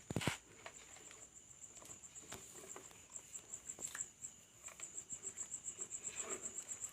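Insect chirping steadily, a high-pitched pulse repeating about eight times a second, with a sharp click just after the start and a few faint knocks and rustles.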